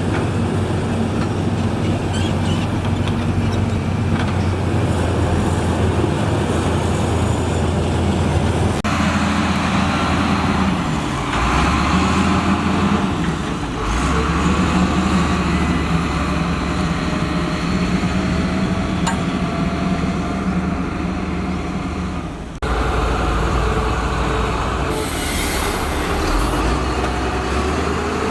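Diesel engine of heavy road-building machinery running steadily, with a steady whine above the engine note. The sound changes abruptly twice, about nine seconds in and again a little past twenty-two seconds.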